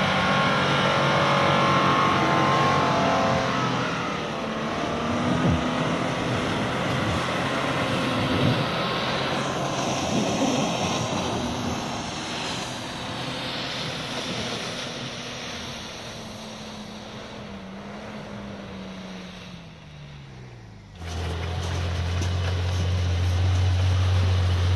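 Off-road 4x4 vehicle engines running over a broad haze of noise. The engine note falls slowly over several seconds. After a sudden cut, a lower, steady engine drone follows.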